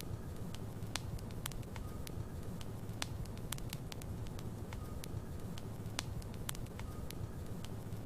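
Wood logs burning in a fireplace: a steady low rumble of the flames with irregular sharp crackles and pops, a few each second.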